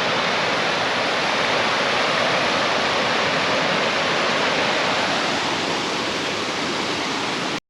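Steady rush of fast-flowing mountain water, a glacial stream tumbling over rocks. It starts and stops abruptly at edit cuts.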